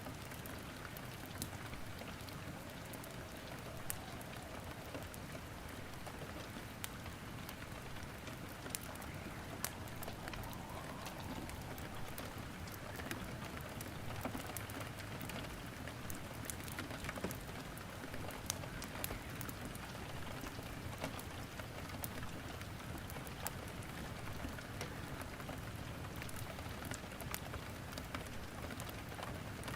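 Steady rain mixed with wood crackling in a fireplace, with scattered sharp pops and ticks throughout.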